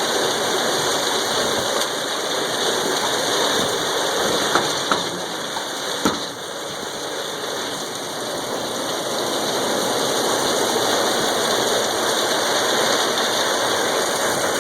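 Heavy rain falling steadily, a warm summer shower, with a few sharp taps about a third of the way in.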